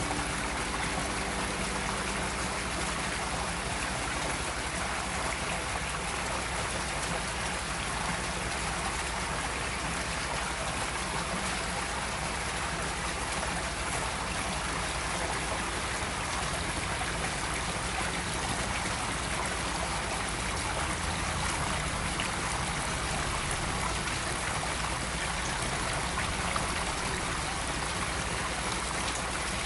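Water running and trickling steadily into an outdoor koi pond, an even flowing-water sound with no break.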